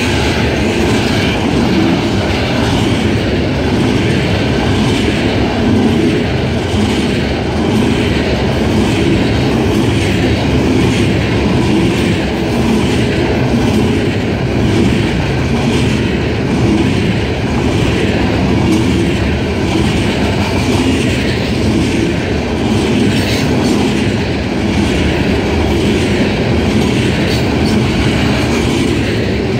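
Loaded coal hopper cars of a freight train rolling past: a steady, loud rumble of steel wheels on rail, with a regular clickety-clack as the wheels pass over the rail joints.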